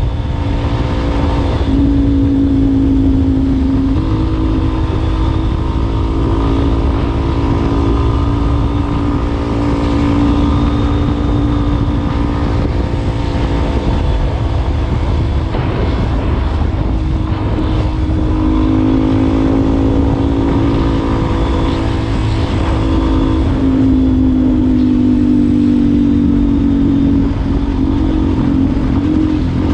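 Yamaha Ténéré 250's single-cylinder engine running through an aftermarket Wacs muffler, held at a steady pace. The exhaust note rises and falls gently a few times over a dense low rumble.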